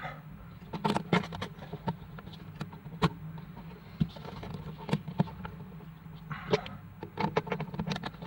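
Irregular light clicks and taps, clustered about a second in and again near the end, over a steady low hum.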